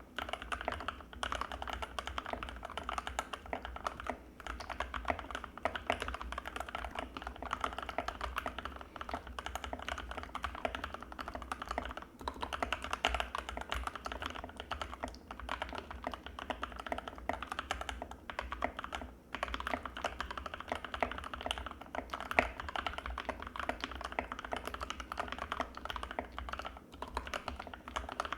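Fast, continuous typing on an Anne Pro 2 mechanical keyboard with Gateron Red linear switches: a dense stream of key clacks, broken by brief pauses a few times.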